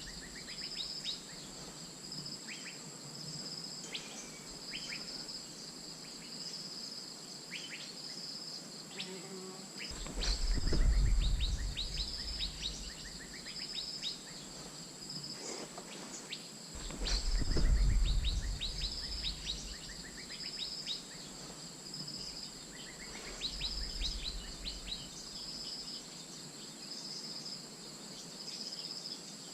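Asian fairy-bluebird calls: short falling whistled notes, over a steady high insect buzz with a high note repeating about every second and a half. Two loud low rumbles come through, about ten and seventeen seconds in.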